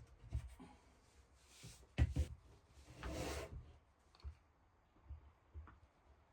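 Wooden pieces being handled: a sharp knock about two seconds in, then a short rubbing scrape, with a few light clicks and taps around them.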